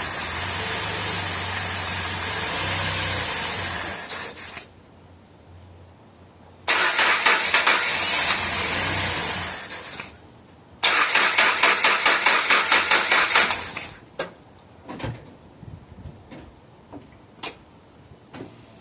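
Mitsubishi Galant Σ's carburetted four-cylinder engine running briefly on petrol poured into the float chamber, then sputtering out about four and a half seconds in: it stalls because the fuel pump has not been primed. After a pause the starter motor cranks it twice, about three seconds each with a regular chug of compressions, without it catching, followed by a few light clicks and knocks.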